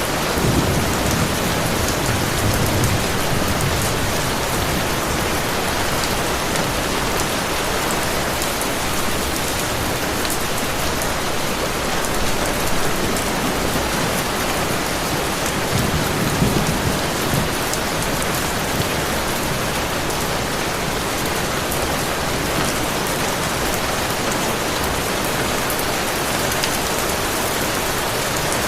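Heavy rain falling steadily, with low rumbles of distant thunder near the start and again about halfway through.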